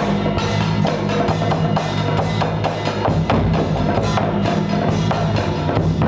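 Music with busy percussion: rapid drum and wood-block-like strikes over a steady low drone, at an even loudness without pause.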